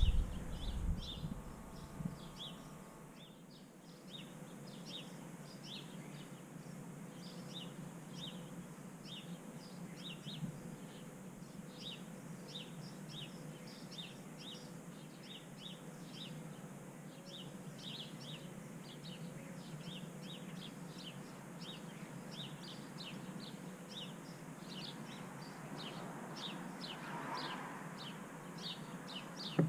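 Small backyard birds chirping over and over, short high chirps several times a second, over a steady low background noise. A few low knocks in the first two seconds.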